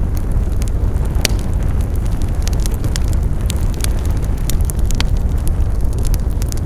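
Wood fire burning: a steady low rumble of flames with frequent irregular crackles and pops. The sharpest pops come about a second in and again about five seconds in.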